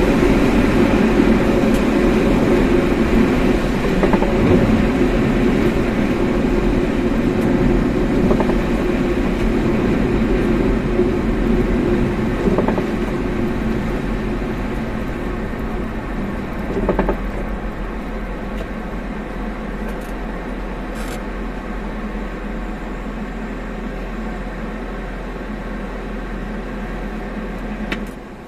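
Car driving, heard from inside the cabin: a steady drone of engine and tyre road noise. It eases off about halfway through, as if the car is slowing, and then runs on more quietly.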